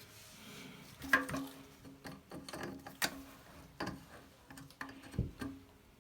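Irregular plastic clicks and knocks from hand-tightening the plastic lock nut on the underside of a toilet fill valve and handling its parts, with a faint steady hum behind.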